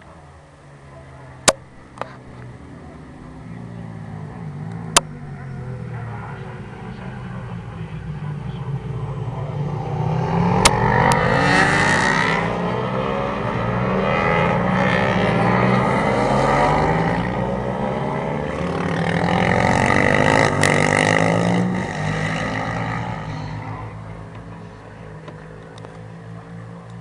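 Several racing motorcycles approaching and passing on a circuit, their engines revving with pitch sliding up and down, swelling three times before fading away. A few sharp clicks come in the first few seconds.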